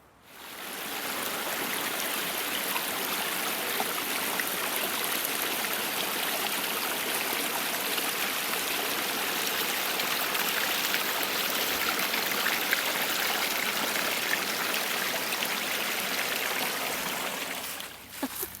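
Stream water running steadily, a continuous rushing and trickling that fades in at the start and drops away just before the end.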